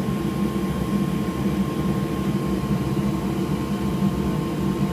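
Steady whirring hum of an electric fan or blower at the workbench, with a faint constant high whine over it.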